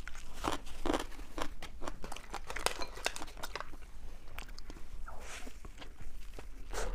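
Plastic food bag crinkling and crackling as it is handled, in quick irregular crackles with a brief rustle about five seconds in.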